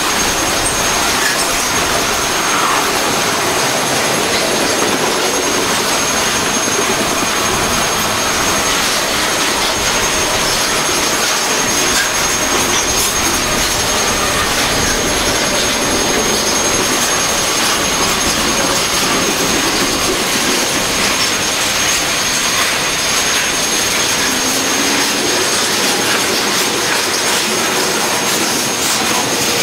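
Double-stack container well cars of a freight train rolling past: a loud, steady roar of steel wheels on the rails.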